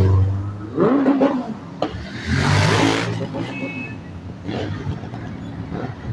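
Motor vehicle engine running, with a loud rushing swell a little after two seconds in that fades by about three seconds.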